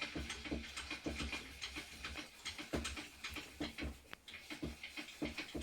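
Tools and small parts being handled on a workbench: irregular light clicks and knocks with dull thumps.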